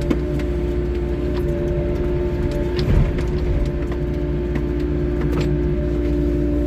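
Wheeled excavator running steadily, with a steady whine over its diesel engine's rumble and a thump about three seconds in.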